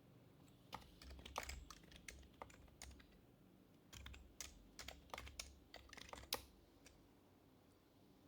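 Typing on an HHKB Professional HYBRID Type-S keyboard with Topre electrostatic capacitive, silenced switches. The keystrokes are faint and soft, coming in two quick runs with a short pause of about a second between them, and end in one louder keystroke.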